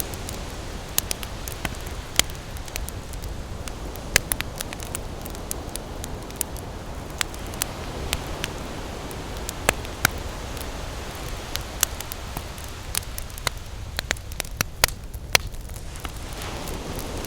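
Wood campfire crackling, with sharp irregular pops and snaps over a steady low rush of ocean surf.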